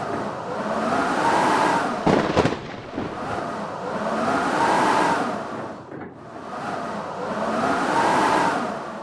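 Strong blizzard wind blowing in gusts that swell and fade every few seconds, with a whistling note that rises and falls with each gust. A short buffeting burst about two seconds in.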